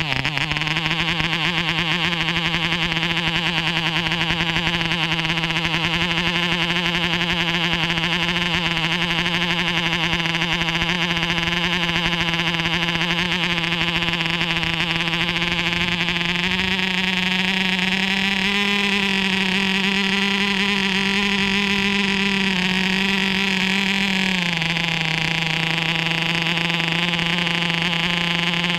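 MARZ (MAP3) 2.5 cc diesel model airplane engine running steadily at high speed with a high, buzzing pitch. About sixteen seconds in its speed picks up a little and holds, then drops back to the earlier speed about eight seconds later. It is not run at full power.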